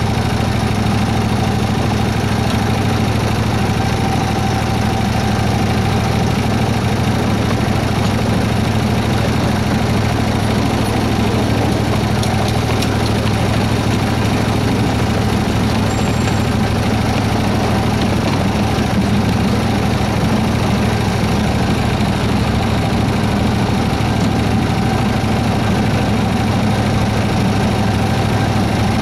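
Engine of a 7¼-inch-gauge miniature Baldwin S-12 locomotive running steadily, heard from the driving seat, an even drone with no change in pitch.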